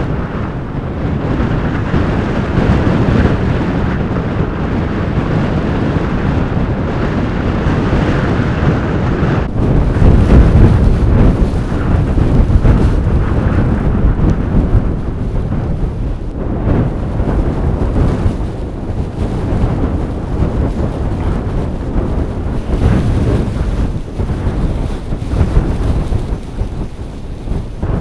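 Strong blizzard wind gusting and buffeting the microphone, with a deep rumble, strongest about ten seconds in.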